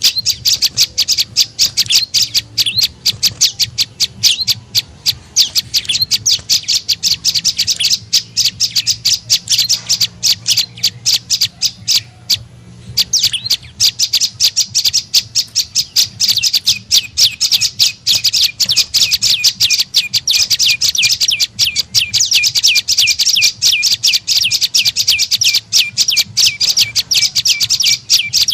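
Prenjak lumut calling: a fast, unbroken string of sharp, high chirps, several a second, pausing briefly about twelve seconds in. A lure call recording meant to draw in wild prenjak.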